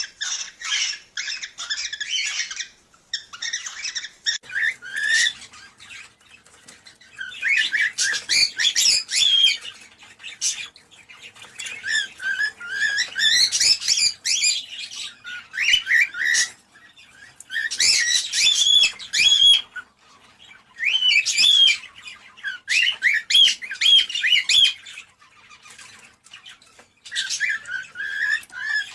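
Cockatiels chirping and squawking in repeated bursts of rapid, high warbled notes, each a second or two long, with short pauses between.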